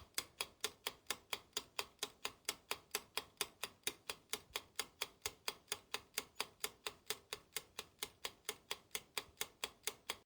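Ticking clock sound effect, fast even ticks at about four a second, cutting off suddenly at the end.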